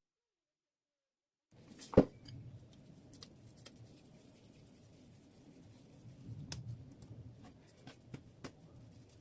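Dead silence at first, then a single sharp knock about two seconds in, followed by faint scattered clicks and light handling sounds.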